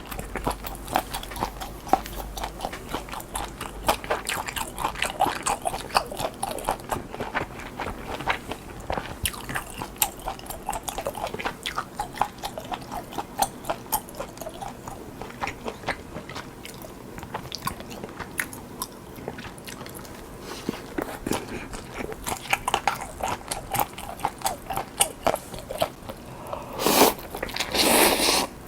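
Close-miked eating: a person biting and chewing crunchy food, a quick run of crunches and wet chewing clicks, with two louder, longer bursts near the end.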